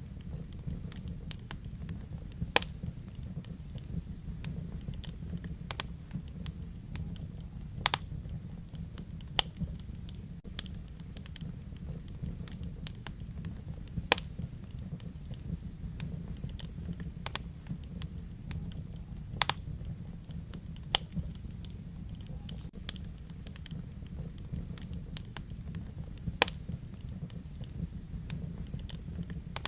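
Wood fire burning in a fireplace, a low steady rumble of flame with irregular sharp crackles and occasional louder pops.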